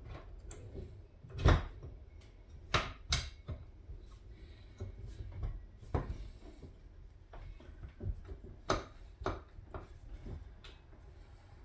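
Outboard motor parts and hand tools being handled and fitted together: a series of separate knocks and clinks, the loudest about a second and a half in.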